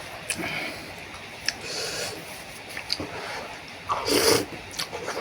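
Someone eating noodle soup: slurping noodles and broth with wet mouth clicks and chewing, the loudest slurp about four seconds in.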